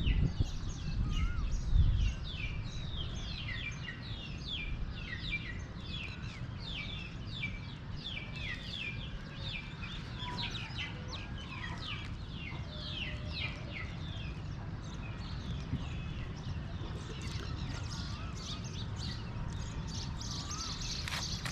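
Many small birds chirping in a busy chorus of quick, short downward chirps, with an occasional slower wavy whistle. A steady low rumble of background noise lies underneath, with a few low bumps in the first two seconds.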